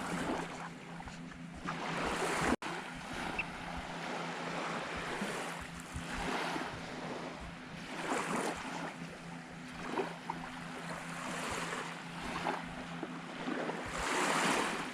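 Small waves washing onto a sandy beach, the surf noise swelling and fading every second or two, with some wind on the microphone. The sound drops out for an instant about two and a half seconds in.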